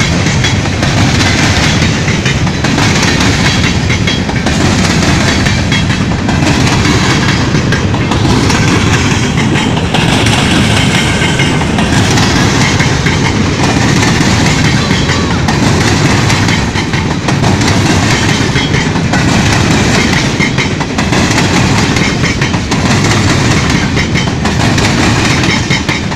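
A long train passing at close range: a loud, steady rumble of railcars rolling by, with a regular clickety-clack of wheels over the rail joints.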